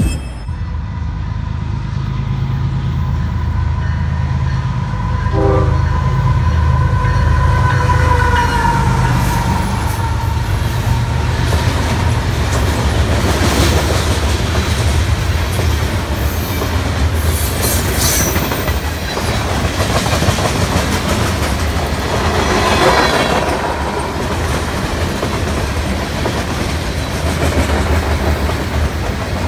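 Canadian Pacific grain train of covered hopper cars passing close by. Heavy diesel locomotive rumble comes first, with a horn sounding for much of the first ten seconds. Then comes the steady rumble and clatter of the hopper cars' wheels over the rail joints.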